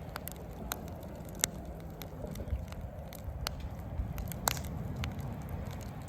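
Wood fire in a fire-pit crackling, with irregular sharp pops, two of them louder about a second and a half and four and a half seconds in, over a low steady rumble.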